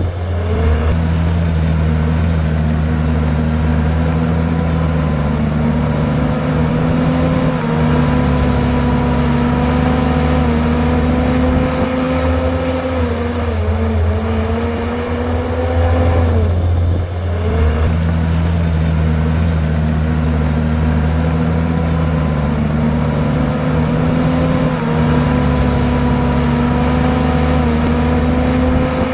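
Komatsu bulldozer's diesel engine running steadily while pushing rock and soil, its pitch dipping briefly a few times as the engine takes load.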